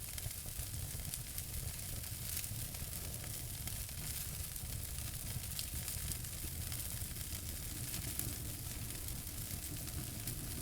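Wood fire burning in a fireplace, with a steady low rumble of the flames and frequent small crackles and pops.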